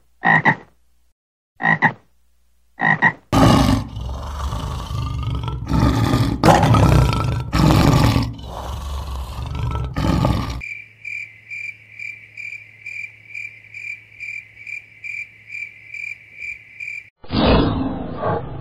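A frog gives three short croaking calls, then a lion roars loudly in a series of rough, deep roars for about seven seconds. After that comes an even, high chirping pulsed about three times a second, and near the end a growling roar starts up as an animated dinosaur's sound effect.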